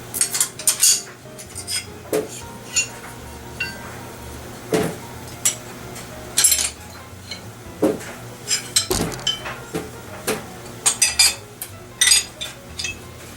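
Metal metallophone bars clinking and knocking as they are picked up, wiped and set down, some knocks leaving a brief ringing tone. The knocks come irregularly, several a second in places.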